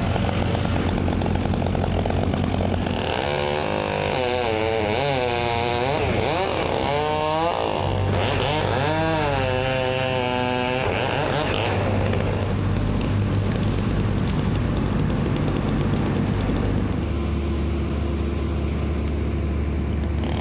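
Chainsaw cutting through a tree lead, its engine pitch rising and falling through the cut for several seconds, over the steady low hum of an engine running.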